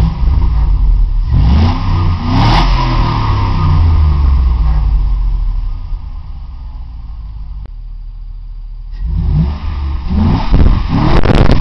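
2003 Chevy Tahoe's 5.3-litre V8 on its stock exhaust, revved up and back down at standstill twice, settling briefly to a quiet idle in between.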